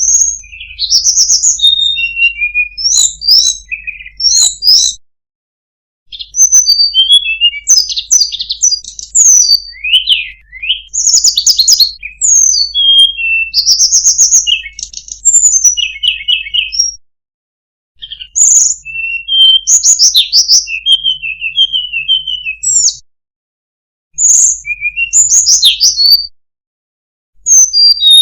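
A tledekan gunung songbird singing: fast, varied phrases of high, sweet whistled notes, sliding up and down, in runs of several seconds. The song stops dead four times, cut off between clips, with a faint low hum under the singing.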